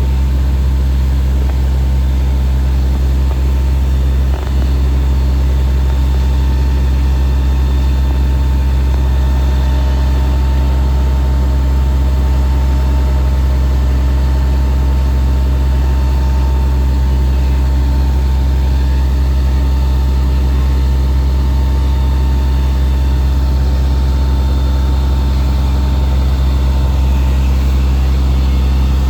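Fire engine's engine running steadily at a constant speed while driving its pump to flow water.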